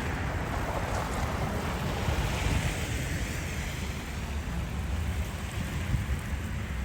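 Steady rushing street ambience of wind and passing traffic on a snowy city street, with a low rumble of wind on the microphone.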